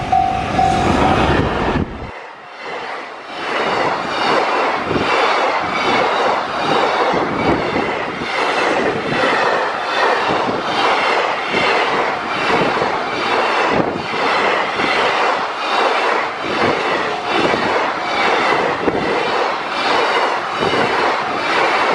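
Container freight train passing close by, its wagons' wheels clattering in a steady rhythm over the rail joints with a rushing, faintly squealing roll. A level-crossing bell rings in pulses for about the first second.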